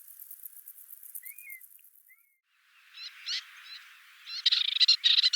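Outdoor wildlife sound: a fast, faint, high-pitched ticking that stops about two seconds in, then chattering animal calls that start about three seconds in and grow louder.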